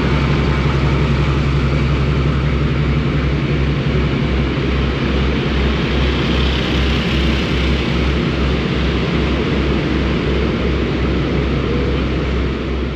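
Class 52 'Western' diesel-hydraulic locomotive D1015 Western Champion's twin Maybach engines idling loudly, a steady low drone with a regular throb.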